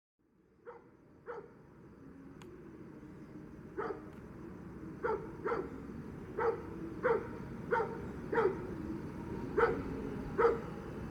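A dog barking repeatedly, about a dozen short barks, several in quick pairs, over a low rumble that grows steadily louder.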